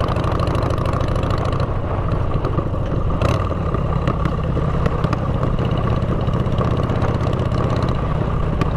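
Motorcycle engine running steadily through aftermarket exhaust pipes while riding at an even speed, a dense low pulsing exhaust note.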